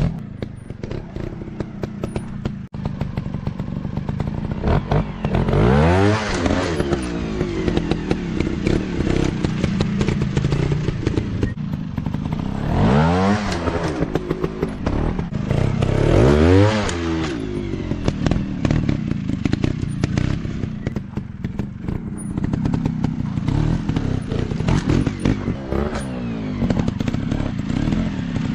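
Small dirt bike engines running and revving, pitch climbing and dropping sharply several times, with clattering knocks throughout.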